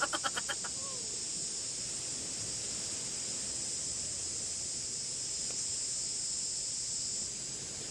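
Insects droning steadily, a high, even buzz that cuts off about seven seconds in. A short run of rapid, fading pulses is heard at the very start.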